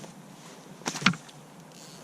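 Two sharp knocks close together about a second in, over a steady hiss of rain.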